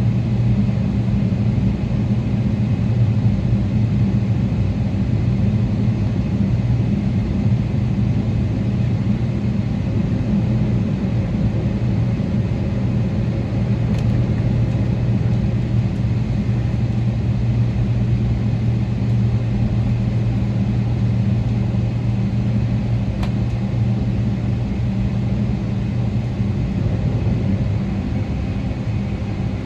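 Inside the cabin of a Boeing 777-300ER: the steady low drone of its GE90 engines, with a deep hum held at two pitches over a rushing hiss. Two faint clicks come about halfway through and again later.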